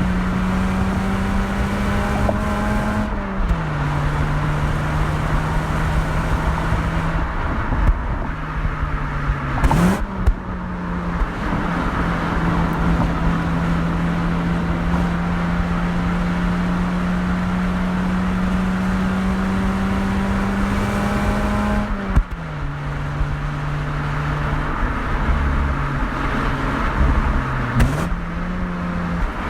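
Mazda RX-8 rotary engine and exhaust under way on a fast mountain road: a steady engine note that climbs slowly as the car pulls, with the pitch dropping at gear changes about 3 and 22 seconds in, and quick dips and recoveries about 10 seconds in and near the end.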